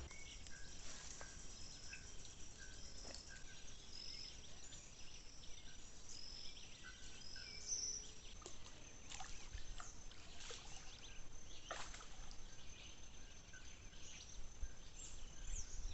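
Faint outdoor nature ambience: short high animal calls repeating about every half second, over a steady high-pitched tone, with scattered sharp clicks and taps.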